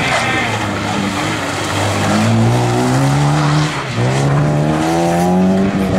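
Rally car engine under hard acceleration. Its pitch climbs, drops sharply at an upshift about four seconds in, then climbs again.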